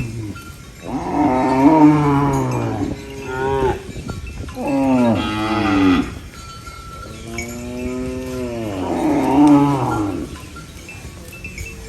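Cow mooing: several long, drawn-out moos, the last one the longest.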